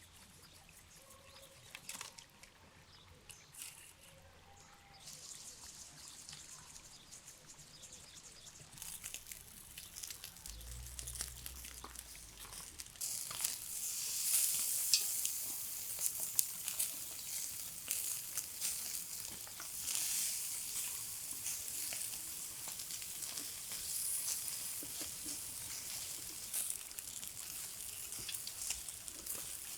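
Food sizzling over a campfire: faint at first, swelling about thirteen seconds in to a steady sizzle with many small crackles.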